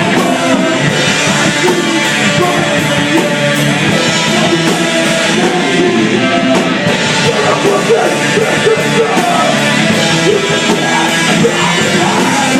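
Rock band playing live and loud: electric guitars and drums, with regular sharp drum or cymbal hits running through.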